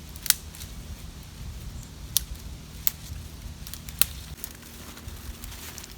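Wood campfire crackling, with a few sharp pops.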